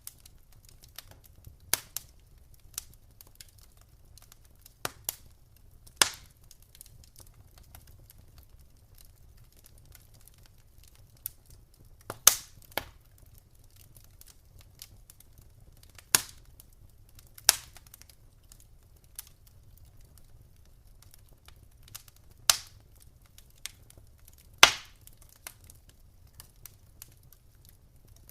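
Wood fire in a fireplace crackling: sharp, irregular pops and snaps every few seconds, the loudest about twelve, seventeen and twenty-five seconds in, over a faint low rumble of the flames.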